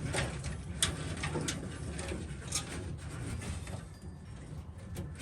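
A few sharp, scattered clicks and taps over a steady low hum.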